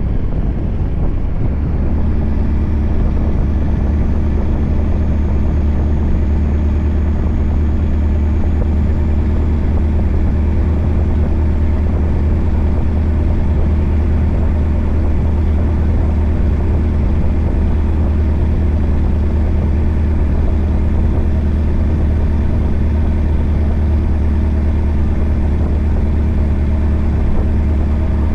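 Scania R580's 16-litre V8 diesel with a straight-piped 8-inch exhaust, running steadily with a low, even drone that holds the same pitch throughout.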